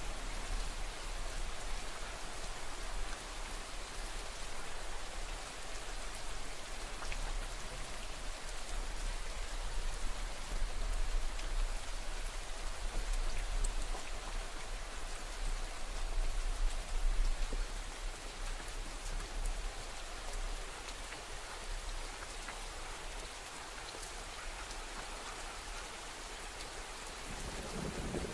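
Steady rain falling, an even hiss dotted with fine drop ticks. A low rumble of thunder begins to build near the end.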